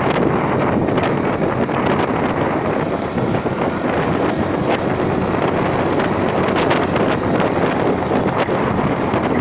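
Wind buffeting the microphone during an open-air vehicle ride uphill: a loud, steady rush with scattered small knocks.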